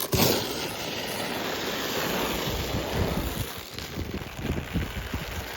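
A loaded sled sliding over snow after a push, a steady scraping hiss, with wind rushing on the microphone and a few soft thuds in the second half.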